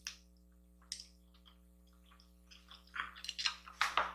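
Close-miked eating sounds: wet chewing and lip smacking, a few scattered clicks at first, then a busier run near the end.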